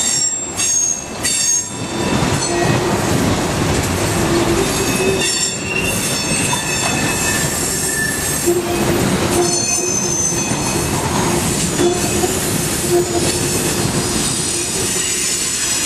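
Long Union Pacific freight train rolling past, its steel wheels squealing against the rails in high, shifting tones over the continuous rumble of the cars.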